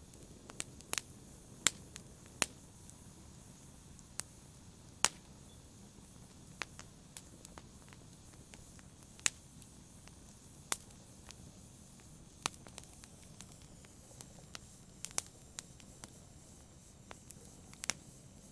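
Wood fire crackling: sharp, irregular pops and snaps from burning logs, a few of them loud, over a faint steady hiss.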